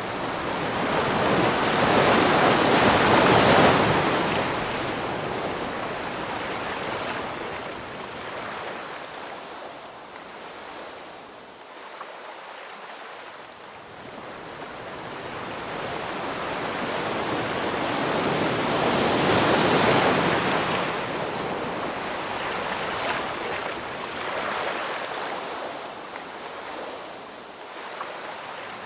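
Ocean waves breaking and washing in: two waves swell up and die away, the first a few seconds in and the second about two-thirds of the way through, with a softer hiss of surf between them.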